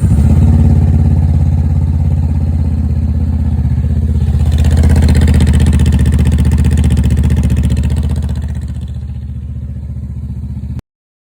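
2022 Honda CBR500R's parallel-twin engine, just started, idling steadily through a Leo Vince slip-on muffler. The note swells a little around the middle and eases back near the end, then cuts off suddenly.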